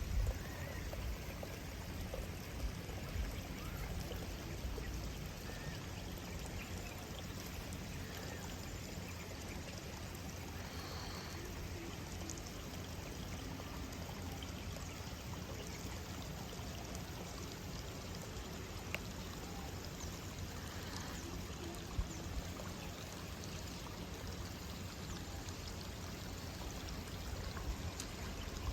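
Steady running water, trickling and pouring, with a few faint clicks over it.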